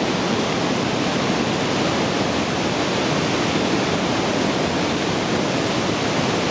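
Pailón del Diablo waterfall, a large mountain fall, roaring steadily at close range.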